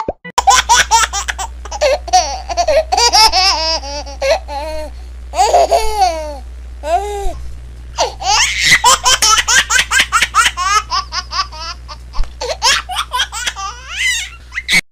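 High-pitched, childlike laughter in rapid fits, over a steady low hum; it starts about half a second in and cuts off just before the end.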